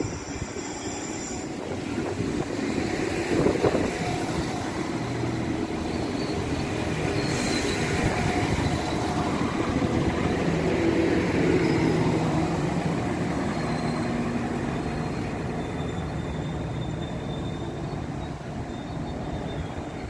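Iarnród Éireann 22000 Class InterCity Railcar diesel multiple unit running slowly into the platform and coming to a stop, a steady rumble that swells as the carriages pass, with thin high squeals now and then as it slows.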